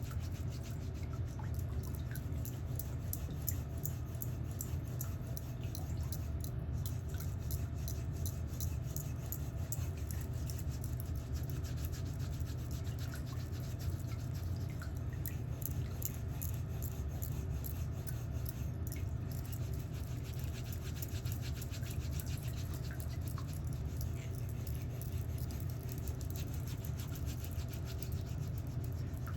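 Electric nail drill running steadily, a constant low hum with a fine rapid buzz over it, its burr filing down a fungus-affected toenail.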